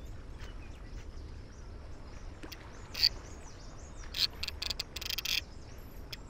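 Birds chirping in short, high calls over a steady low outdoor rumble, with a quick cluster of chirps about four to five seconds in.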